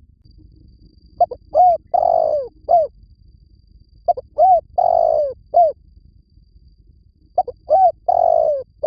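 Spotted dove cooing: three repeats of its phrase about three seconds apart, each a quick short note, then arched coos around a longer middle note.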